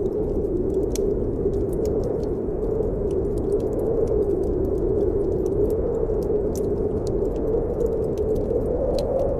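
Snowstorm wind howling steadily with a low, slowly wavering moan, over a wood fire in a fireplace crackling with scattered sharp pops.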